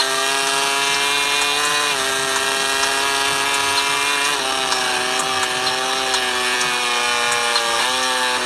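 MotoGP racing motorcycle engine running flat out at high revs, a steady high-pitched scream whose pitch shifts in steps about three times as the rider changes gear.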